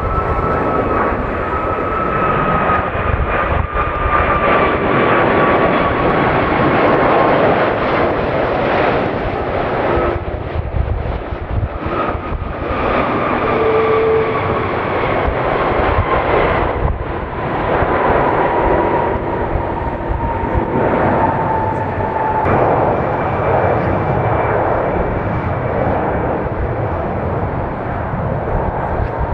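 Jet airliner taking off close by, its engines at full power: a loud steady rush with a high whine that falls in pitch twice as the aircraft goes past.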